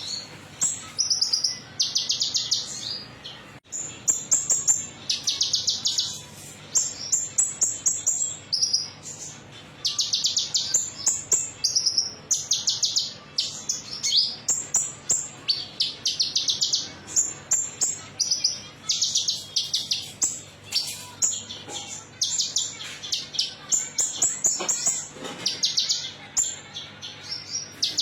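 Konin songbird singing a 'metallic' song: short, high, rapidly trilled phrases repeated about once a second without a break.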